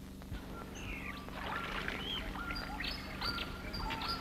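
Birds calling in the bush, many short whistled calls that jump between high and low notes, coming in about a second in, over a steady low hum.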